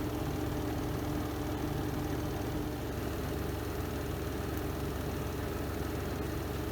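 Spin drum of a Renova semi-automatic twin-tub washing machine running at speed, a steady even hum and whir. A faint whine in it fades out a little under three seconds in.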